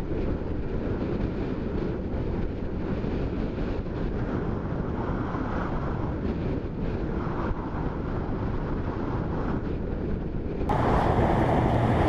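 Steady wind rush on the microphone over the running noise of a moving vehicle, with no pitched engine note standing out; the noise jumps louder near the end.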